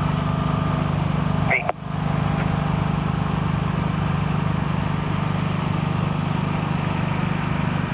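Vehicle engine running steadily with a low hum, briefly dropping out with a short chirp about a second and a half in.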